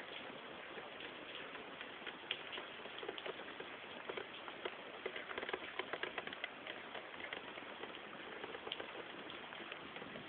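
Heavy rain pattering on a car's windshield: a steady hiss dense with individual drop hits, with a flurry of louder hits about halfway through.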